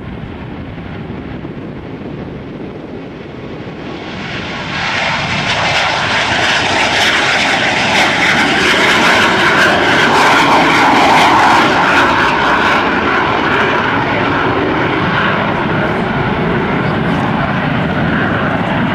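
An airplane flying past. Its engine noise swells about four seconds in, is loudest around the middle, and stays loud.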